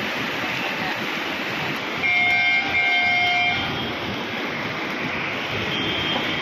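Steady rain and wind noise, with a horn sounding two joined blasts about two seconds in, lasting about a second and a half.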